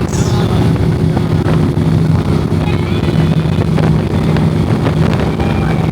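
Motorcycle engine running steadily at road speed, a constant hum with wind rushing over it.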